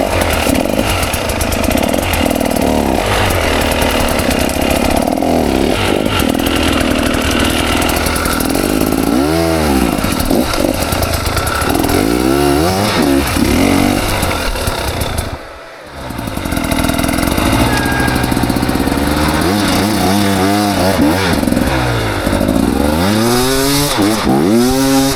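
KTM 300 XC two-stroke dirt bike engine revving up and down over and over as it is ridden through hard-enduro terrain. The engine sound drops away briefly about two-thirds of the way through, then picks up again.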